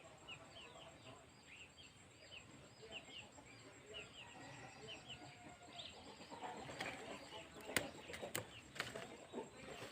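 Faint bird chirps, short and repeated many times, with a few sharp clicks about eight to nine seconds in.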